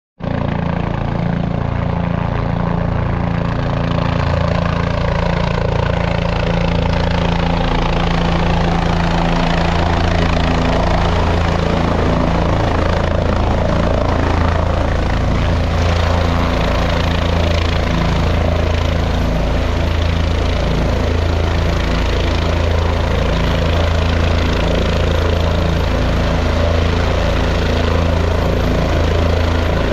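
Helicopter running loudly and steadily, a continuous rotor and turbine hum with no break.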